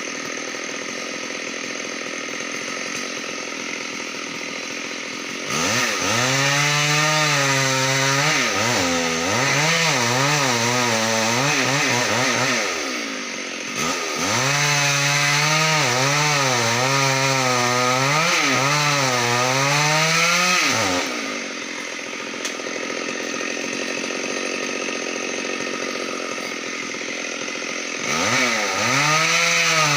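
Stihl MS 382 two-stroke chainsaw idling, then opened up to full throttle in two long spells with a wavering pitch as it bites into teak wood. It drops back to idle between cuts and revs up again near the end.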